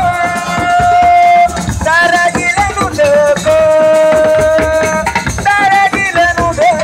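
Live Senegalese assiko band music: a lead voice holding long notes with gliding ornaments over hand drums and shakers.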